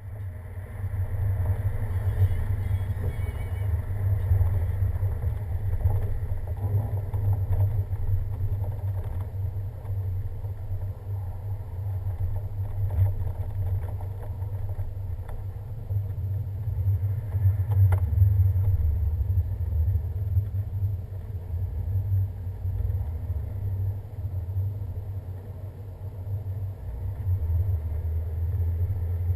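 A vehicle driving on a snow-covered winter road: a steady low rumble of engine and tyres, with one short knock part-way through.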